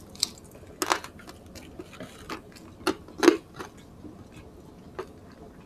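Close-miked eating sounds: wet mouth clicks and lip smacks from chewing roast chicken and rice, irregular, with louder smacks about a second in and around three seconds in.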